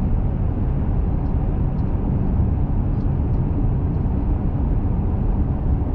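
Steady road and engine noise inside a small truck's cab while driving: a constant low rumble of tyres and drivetrain, with no change in speed.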